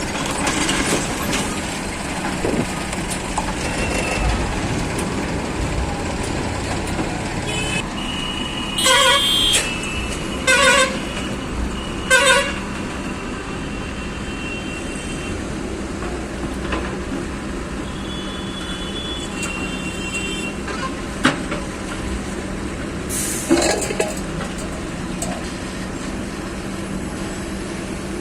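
Heavy machinery engines running steadily, with a vehicle horn giving three short toots about ten seconds in and a few sharp knocks later on.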